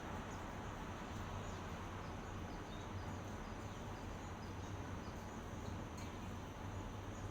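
Steady outdoor ambient hiss with faint, short high bird chirps scattered through it.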